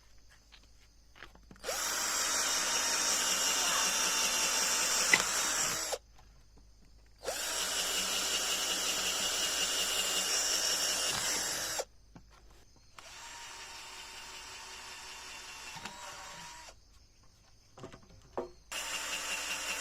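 A handheld power tool, drill-like, runs in three bursts of about four seconds each, with short pauses between them. The third burst is quieter, and a fourth starts near the end.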